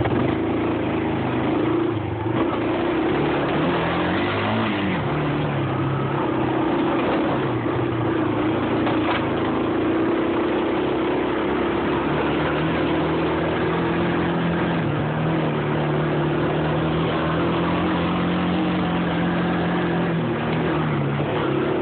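Engine of a ridden vehicle running under way. Its pitch rises and falls a few seconds in, then holds steady.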